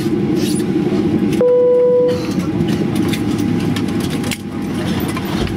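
Steady cabin rumble of a Boeing 737 on the ground after landing, with scattered rattling clicks. A single steady tone like a cabin chime sounds for under a second, about one and a half seconds in.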